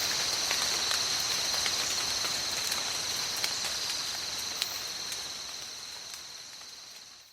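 Steady tropical-forest rain with scattered close drops ticking, with a constant high hiss running through it. It fades out gradually over the last couple of seconds.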